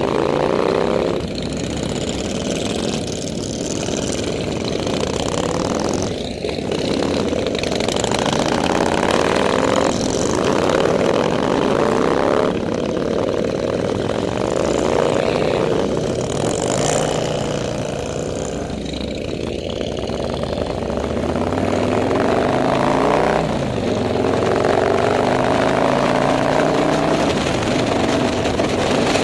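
Motorcycle engines running on a group ride, several overlapping engine notes rising and falling as the bikes speed up and ease off.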